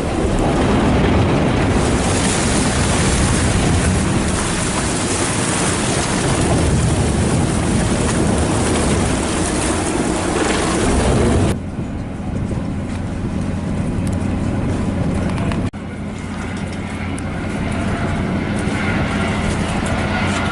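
Wind noise on the microphone over a ferry's engine and water noise, loud and steady. About eleven seconds in it cuts abruptly to a quieter engine-and-water sound with faint steady tones, with another brief break about four seconds later.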